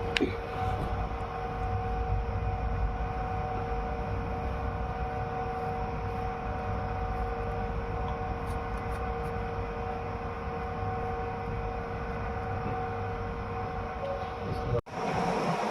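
Soap-factory machinery running steadily: a constant mechanical hum with two steady whining tones over it, broken by a brief dropout near the end.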